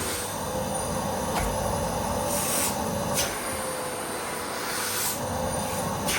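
Miele vacuum cleaner running steadily with a constant motor whine. Several brief high rattling bursts cut through it as small Lego pieces are sucked up the hose.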